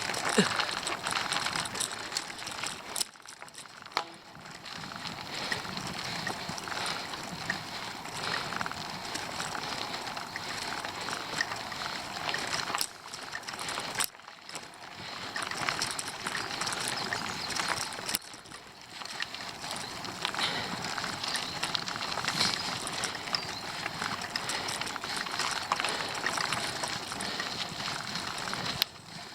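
Bicycle ride noise on a steep climb: tyres rolling and the bike running, under a steady rushing haze that dips briefly a few times.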